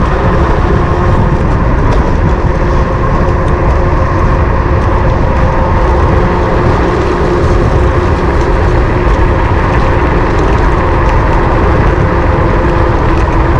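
Wind rushing over a GoPro's microphone on a moving electric bike, a loud steady rumble. A steady whine from the bike's electric motor sits on top.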